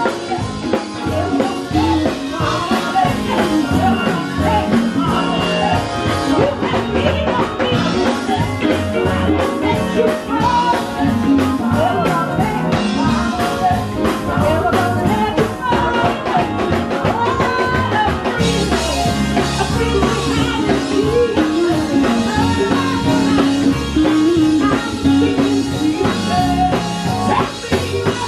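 Live quartet playing an instrumental groove: electric bass guitar and drum kit under a bending, wavering melodic lead line. The bass fills out noticeably about two-thirds of the way in.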